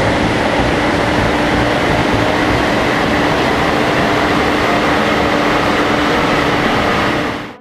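BMW 320d four-cylinder turbodiesel running on a chassis dynamometer, engine, rollers and cooling fan making a loud, steady noise with a constant whine, held at an even speed and fading out near the end.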